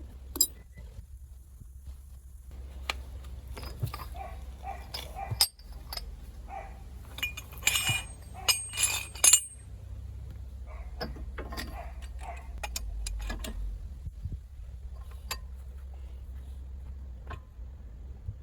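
Steel hand tools and bearing parts clinking and knocking against each other: scattered sharp metallic clicks, with a run of louder ringing clinks about halfway through, over a steady low hum.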